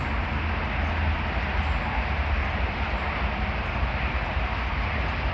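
Air ambulance helicopter flying overhead: a steady, deep rumble of rotor and engine.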